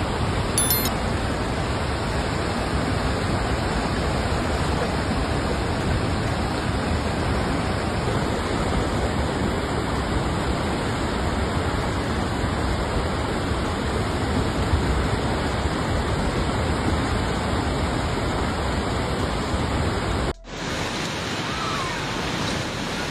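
Loud, steady rushing of a large body of water, like a torrent or waterfall, cutting off abruptly about twenty seconds in.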